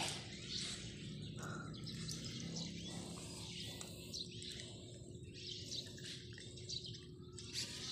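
Faint bird chirps scattered over a low steady background hum.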